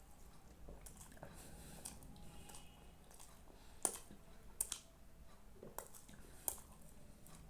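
Quiet eating sounds, with four sharp clicks in the second half.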